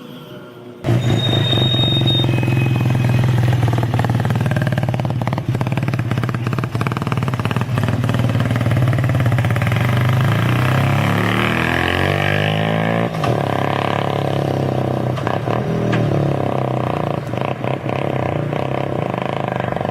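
Suzuki RE5's single-rotor Wankel engine running. It starts abruptly about a second in and holds a steady note, with the pitch rising and falling as the revs change around the middle.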